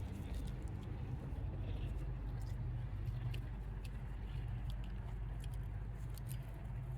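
Scattered light clicks and taps of engine parts being handled and fitted, over a steady low hum.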